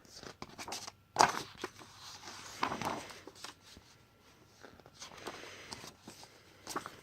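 Picture-book pages being turned and handled: paper rustling with a few soft knocks, loudest about a second in and again near three seconds.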